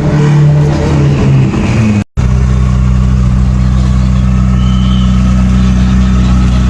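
A high-performance engine revving, its pitch rising and falling. After a sudden cut about two seconds in, an engine idles steadily at a low, even pitch.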